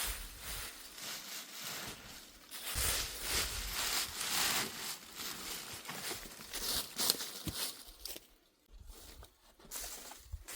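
Irregular rustling and crinkling noises of handling or movement, with a brief lull about eight seconds in.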